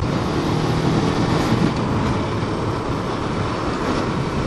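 Suzuki Inazuma GW250 parallel-twin motorcycle engine running under way, mixed with steady wind and road noise; the engine's tone fades into the noise about a second and a half in.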